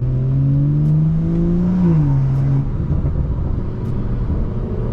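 BMW B58 turbocharged inline-six through a Valvetronic axle-back exhaust with the resonators deleted, pulling hard with the note rising, then dropping in pitch at an upshift about two seconds in. After the shift the note breaks up and runs rougher.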